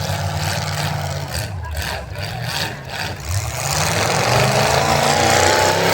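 Pulling truck's engine running hard under load on a pull, its revs climbing over the last two seconds.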